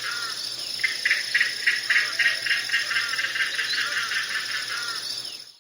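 Australasian darter calling: a rapid series of rattling, clicking notes, about five a second, over a steady high buzz. It cuts off abruptly near the end.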